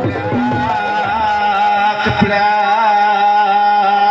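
Traditional jaranan ensemble music: the percussion thins out within the first second, then a single high melody note is held with a slight waver over a steady lower drone, with one low drum stroke about two seconds in.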